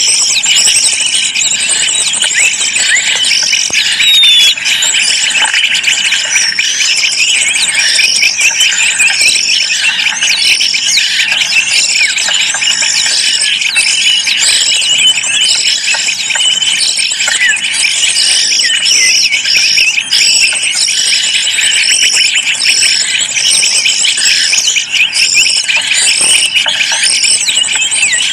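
Small songbirds chirping and twittering constantly and loudly, many high-pitched calls overlapping, with runs of short repeated notes.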